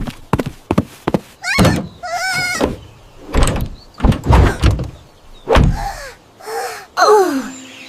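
Cartoon sound effects: a string of sharp knocks and thuds, with a wobbling warble about two seconds in and squeaky falling glides near the end.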